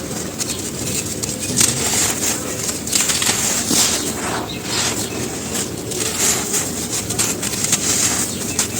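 Dry charcoal ash crumbling and crunching: a continuous run of dense crackles and small crunches.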